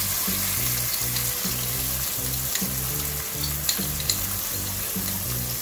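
Chopped onion sizzling as it fries in oil in a pot, with ground ají panca paste just added to it, and a few faint clicks of the wooden spoon.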